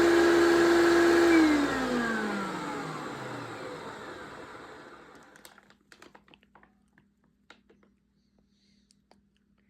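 1993 Hoover PowerMax upright vacuum cleaner motor running with a steady whine, switched off about a second in and winding down with falling pitch over about four seconds. A few faint clicks follow near the end.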